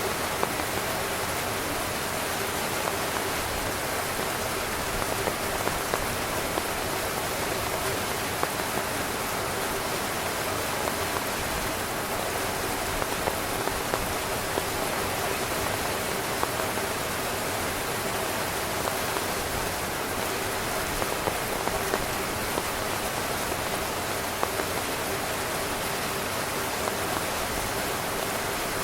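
Steady rain falling on a tent, a dense even hiss with frequent louder individual drops tapping on the fabric.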